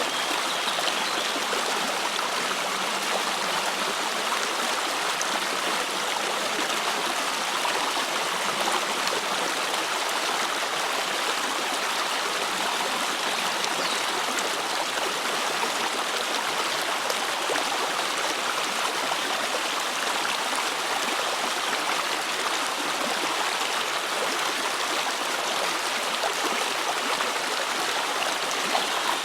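A river's water running steadily, a continuous even rush with no pauses.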